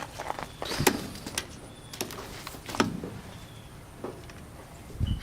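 Scattered metal clinks and knocks from a wrench at work on a transmission bolt, a sharp tap about every second, over a low steady hum.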